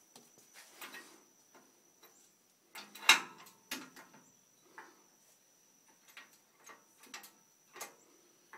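Scattered clicks and knocks from a hydraulic engine hoist being jacked up to lift the engine, with the loudest knock about three seconds in.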